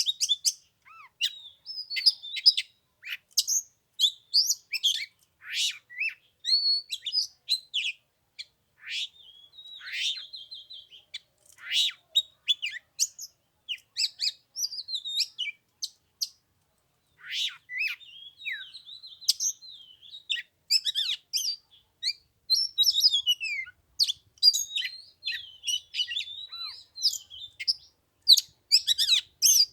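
Oriental magpie-robin singing: a run of varied, quick whistled phrases and chirps, broken by a brief pause about halfway through.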